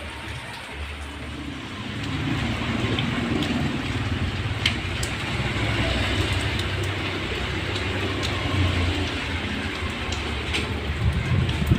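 Strong wind gusting with rain falling, the wind rumbling heavily on the microphone and getting louder about two seconds in, with a few sharp drop ticks.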